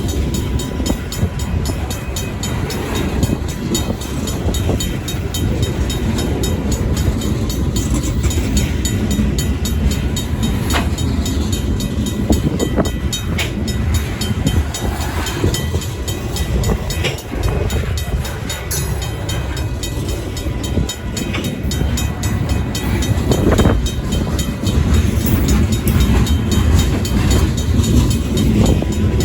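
Union Pacific local freight train rolling over a road crossing: a steady, loud rumble of the cars with scattered wheel clicks and short squeals.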